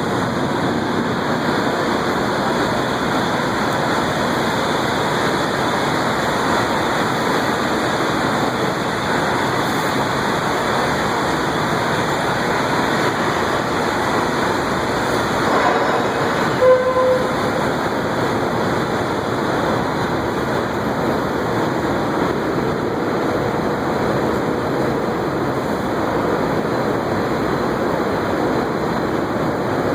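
Electric arc furnace running under power: a loud, steady roar from the carbon electrodes arcing into the scrap steel charge. A short beep sounds once, about seventeen seconds in.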